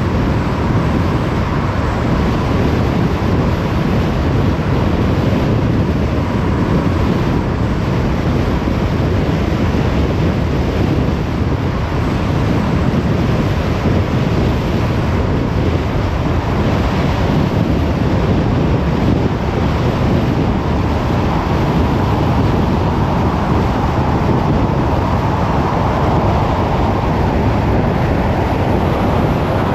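A car driving at speed: steady road and wind noise.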